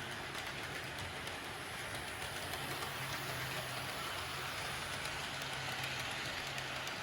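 HO scale model trains running on the track: a steady low hum from the locomotive motors with an even hiss of wheels rolling on the rails.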